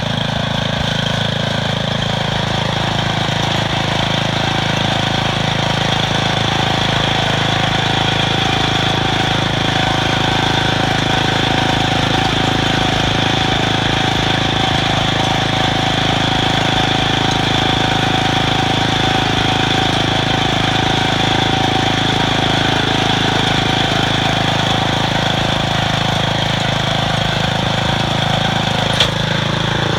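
Planet Jr garden tractor's engine running steadily, with one sharp click near the end.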